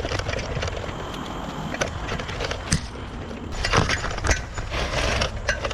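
Mountain bike rattling over a rough trail: irregular clicks and clatter over a steady low rumble, busiest a little past the middle.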